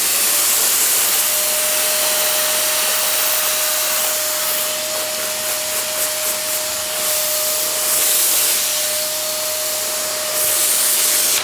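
Silvercrest SBBK 700 B2 700-watt vacuum cleaner running with its narrow crevice nozzle fitted. A steady rush of air sits over a constant motor whine, and the airflow noise swells and eases a little as the nozzle moves.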